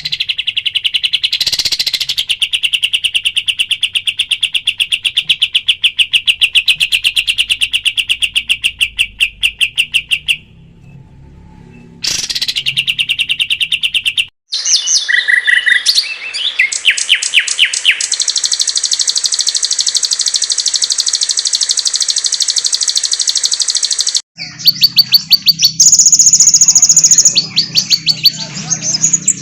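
Recorded songbirds singing fast, rapidly repeated trills, played back as masteran tutor song for caged birds. Several different recordings are spliced together with abrupt cuts, about ten, fourteen and twenty-four seconds in. The last one carries a low hum under the song.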